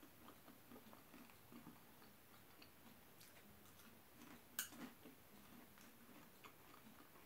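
Faint chewing and soft mouth noises of someone eating from a spoon, with one sharp click about four and a half seconds in as the metal spoon taps the bowl.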